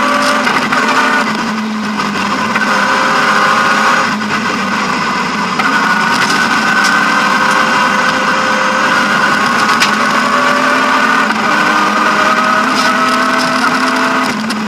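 BMW E36 M3 rally car's straight-six engine running hard, heard from inside the cabin. Its pitch steps up and down several times with throttle and gear changes, over steady road noise and a few sharp ticks.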